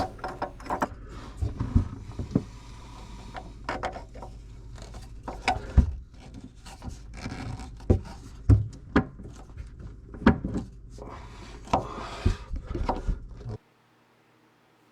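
Irregular knocks, clicks and rubbing of faucet parts being handled and fitted, as the new spout shank is set in place and its spacer and nut are worked on from under the sink cabinet, over a low steady hum. The sound stops abruptly near the end.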